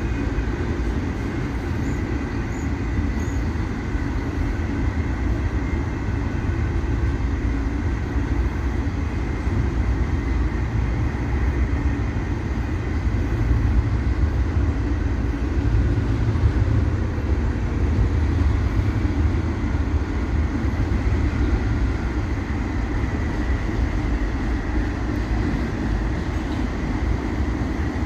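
Freight train cars rolling past on steel rails: a steady low rumble of wheels and cars that swells a little midway, with a faint high tone over it.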